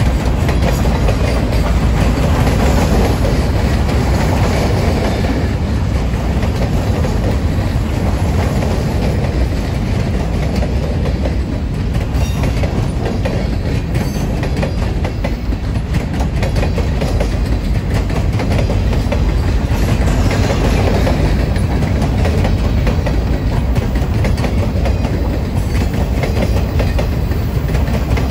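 Freight train boxcars rolling past close by: a steady heavy rumble of steel wheels on rail, with a constant clickety-clack of wheels over rail joints.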